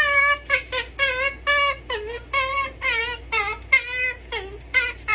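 A cat meowing over and over in short, quick meows, two or three a second, each bending in pitch.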